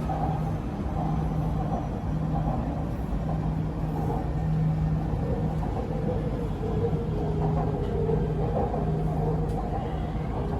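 Inside an MRT Purple Line electric train running between stations: a steady rumble with a low hum. A faint whine comes in during the second half as the train nears the next station.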